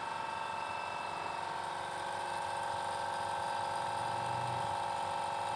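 Small air compressor running steadily, a constant motor hum with a few fixed tones.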